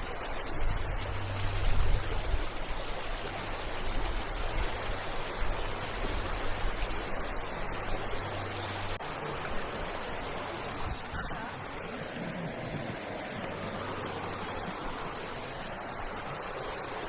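The River Dove flowing over and around stepping stones: a steady rushing of water. For about the first half a low rumble of wind on the microphone lies under it, then stops.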